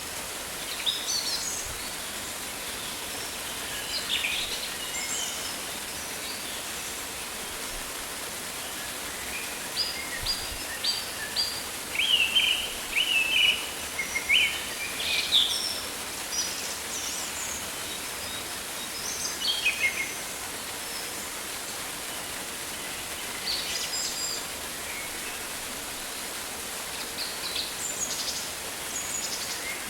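Rainforest ambience: a steady hiss of rain with birds calling over it, scattered chirps and short whistled phrases that come thickest around the middle, in a quick run of repeated chirps.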